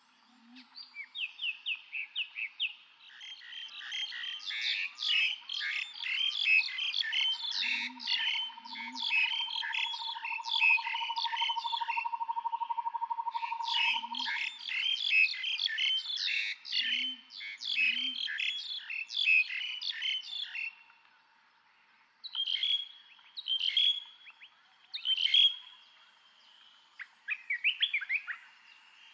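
Several birds singing at once: a dense chorus of rapid high chirps, with a long even trill in the middle. A few soft low two-note hoots come now and then. After about twenty seconds the chorus thins to separate short calls.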